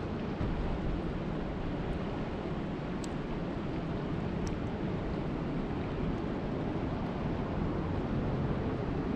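Steady rush of water, deep and even, with a couple of faint clicks about three and four and a half seconds in.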